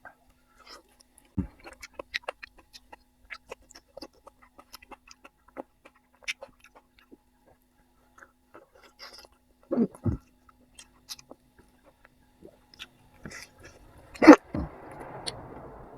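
A person eating with the mouth close to the microphone: chewing with many small scattered mouth clicks and a few low thumps, then one louder sharp sound near the end followed by a brief soft rushing noise.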